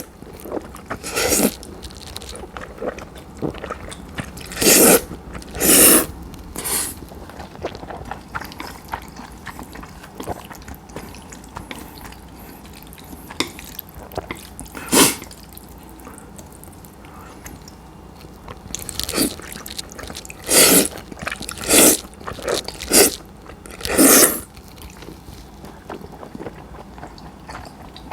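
Cold udon noodles being slurped and chewed at close range. Short loud slurps come in a cluster a few seconds in, once mid-way and in a quick run near the end, with quieter chewing between.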